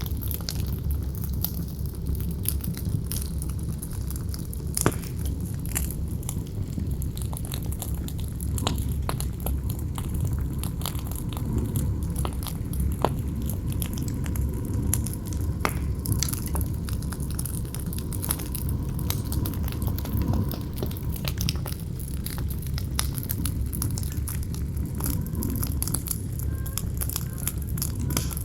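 Campfire crackling with scattered sharp pops, over a steady low rumble of wind.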